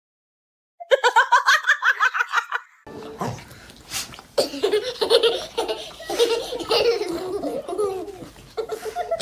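Laughter: a short run of rapid high-pitched laughs starting about a second in, then a longer stretch of hearty laughing.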